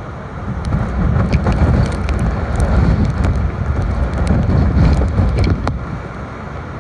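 Hurricane wind buffeting the microphone with rain, a low rumbling rush that strengthens about a second in and eases near the end, with scattered sharp ticks.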